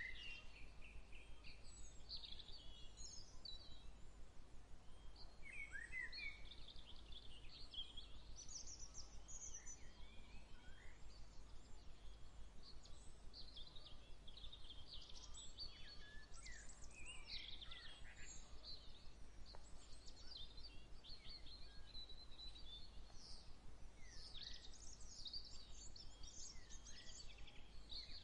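Several small birds chirping and singing in short, overlapping phrases over a faint steady background hum.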